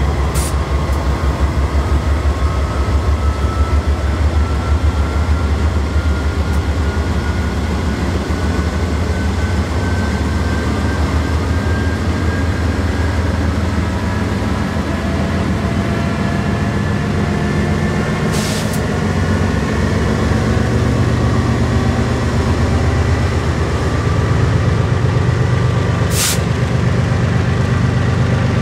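A train's diesel locomotives running with a steady, loud low rumble and throb, a faint whine slowly rising in pitch under it. There are brief hissing bursts near the start, about two-thirds of the way in and again near the end.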